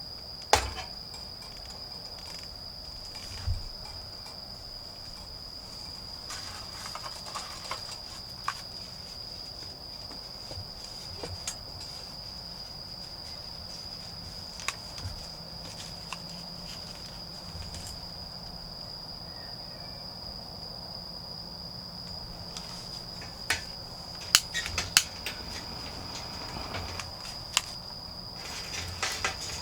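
Autumn insects, crickets, calling as one steady, unbroken high-pitched trill. Scattered sharp knocks and rustles break in, once about half a second in, once about 3.5 s in, and a cluster near the end.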